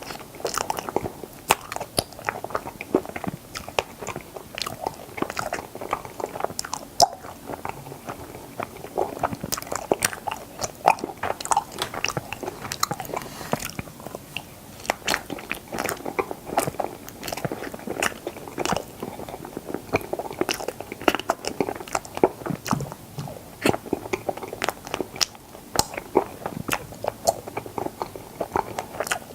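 Close-miked chewing and biting of strawberry mochi ice cream: a steady run of small sharp crunches, sticky clicks and wet mouth sounds.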